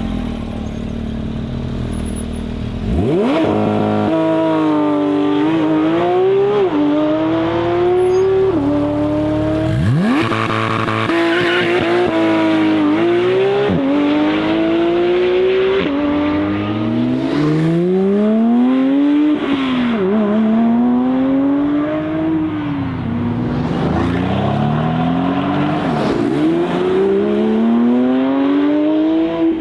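Sports car engines accelerating hard through the gears: after a lower steady rumble, a sharp rev about three seconds in and another about ten seconds in, then the engine note climbs and drops back at each upshift, over and over.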